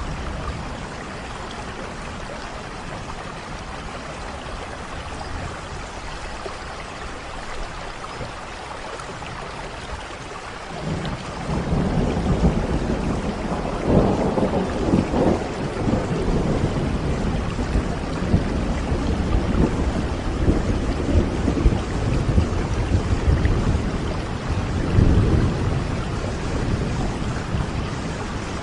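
Steady rain falling, with rolling thunder starting about eleven seconds in and rumbling on, swelling a few times, to the end.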